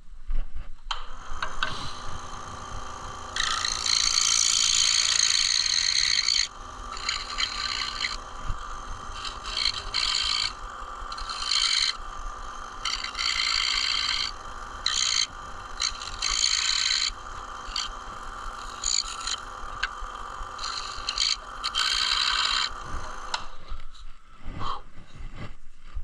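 Scroll saw running, its blade cutting dovetail tails in a wooden rail, with the rasp of the cut coming and going in repeated stretches over the steady motor sound. The saw starts about a second in and stops near the end.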